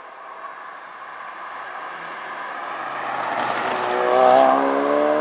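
Ford Focus RS's turbocharged 2.3-litre four-cylinder engine getting steadily louder as the car approaches at speed, loudest as it passes about four seconds in.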